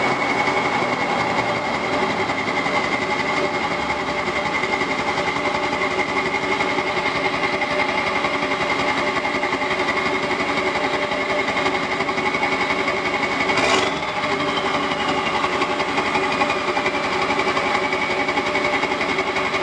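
Straight-piped 7.3 L Powerstroke V8 turbo diesel running steadily with a fast, even clatter and a steady high whine over it. A brief sharp sound cuts in about two-thirds of the way through.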